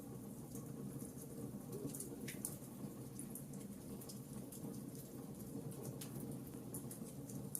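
Wood fire crackling: irregular small pops and snaps over a steady low rumble of the flames.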